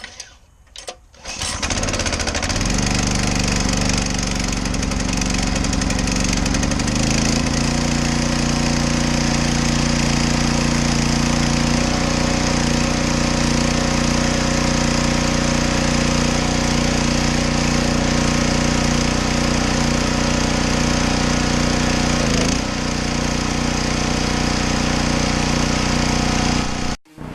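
Pressure washer running steadily, its motor and spray jet together making a loud, even drone with a hiss. It steps up a little in pitch about seven seconds in and cuts off sharply near the end.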